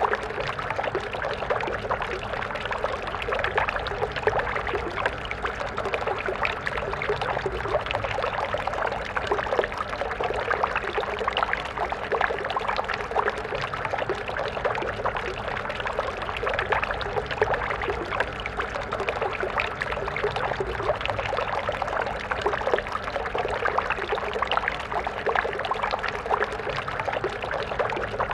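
A stream of water flowing and splashing steadily.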